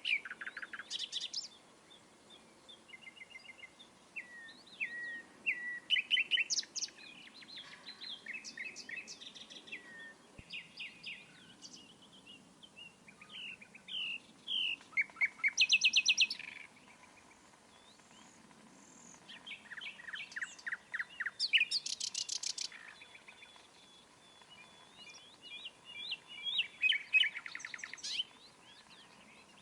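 Songbirds singing and chirping in a mix of calls: quick chirps, rapid trills and runs of repeated notes, coming in phrases with short pauses between them.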